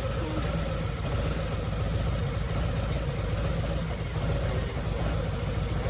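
A motor vehicle engine idling steadily, with no revving.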